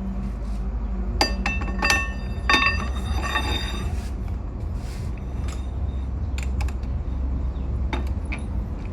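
Metal pieces clinking together several times about one to three seconds in, each with a short ringing, then a few lighter taps, over a steady low machine hum.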